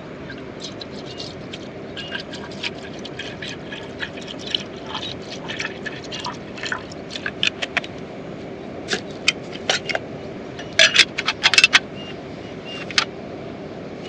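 Steady heavy rain with many irregular sharp taps and clicks over it, coming closer together towards the middle, with a quick run of louder ones about eleven seconds in.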